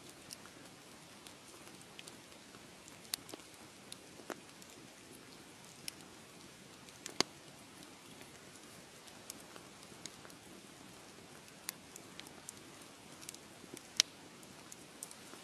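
Wood fire crackling: a soft steady hiss with scattered sharp pops and snaps, the loudest about seven seconds in and near the end.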